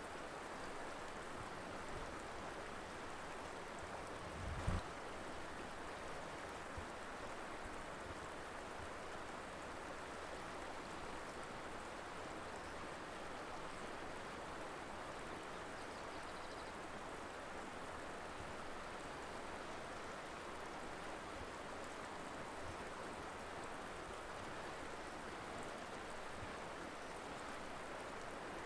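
Colorado River flowing: a steady, even rush of water. One brief low thump is heard nearly five seconds in.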